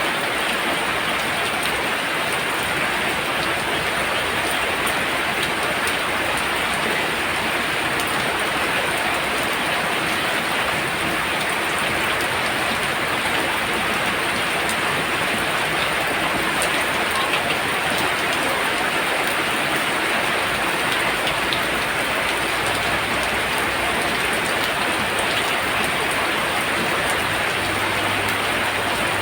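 Heavy rain falling steadily, a dense even patter of drops with no break.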